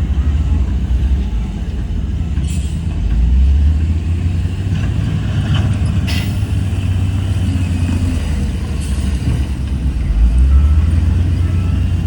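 Heavy diesel engine of earthmoving machinery running, its low rumble swelling and easing, with a couple of sharp clanks about two and a half and six seconds in.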